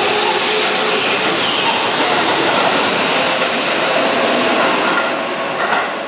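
Keihan 9000 series electric train running past the platform: a steady rush of wheel and motor noise that fades over the last second as the last car clears.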